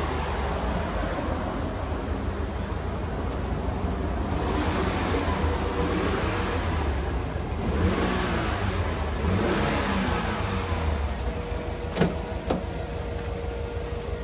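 Subaru Impreza WRX (GDA) turbocharged flat-four running through a Kakimoto aftermarket exhaust, its sound rising and falling twice as if lightly revved, then settling back to idle. Two sharp clicks near the end.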